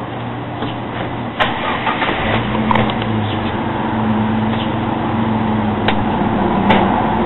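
A motor running steadily, its hum growing fuller about two seconds in, with a few sharp clicks over it.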